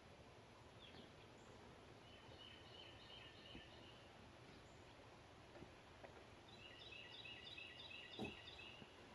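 Faint outdoor quiet in which a bird calls twice, each call a rapid run of repeated high notes lasting about two seconds. A single soft tap comes near the end.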